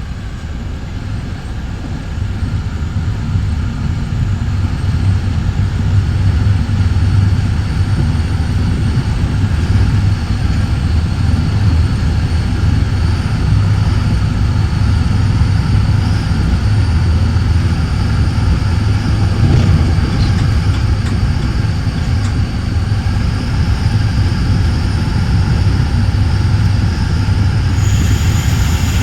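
Steady low rumble of a bi-level commuter train running at speed, heard from inside its front car, growing louder over the first several seconds. A faint high whine runs under it, and a thin higher tone joins near the end.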